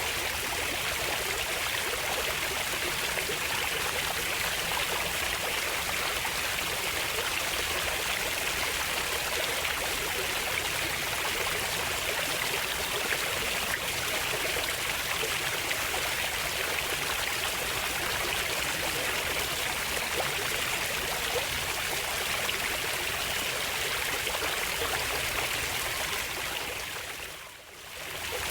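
Stream of water flowing steadily, an even rushing and trickling. It fades down and comes back up briefly near the end.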